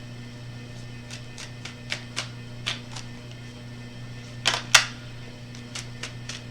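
Tarot cards being handled and drawn from the deck: a scattered series of light clicks and taps, with a louder double snap about four and a half seconds in. A steady low hum runs underneath.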